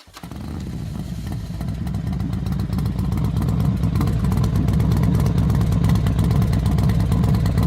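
Motorcycle engine pulling away and building speed over the first two or three seconds, then running steadily under load with a fast pulsing rumble; it cuts off suddenly at the end.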